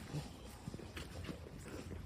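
Footsteps walking along a woodland path, a few short steps over a steady low rumble.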